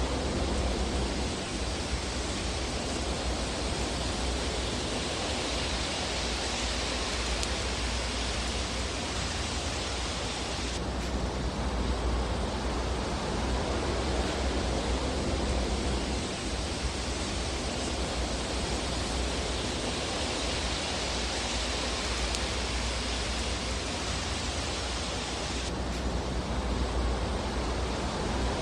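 Steady, even rushing hiss of a fireplace fire ambience track with a low hum underneath and little distinct crackling. The hiss changes tone abruptly about 11 seconds in and again near the end.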